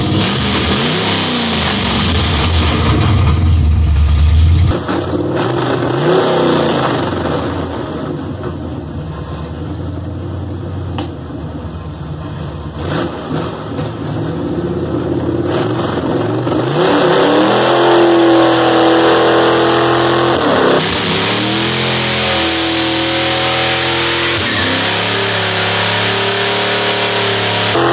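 1955 Chevrolet's engine revving: repeated rising and falling blips, then held at high revs in long pulls that dip and climb again while the rear tires spin in a burnout to warm them.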